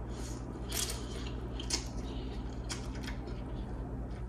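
Someone eating instant noodles: about four short, wet slurping and mouth sounds, over a steady low hum.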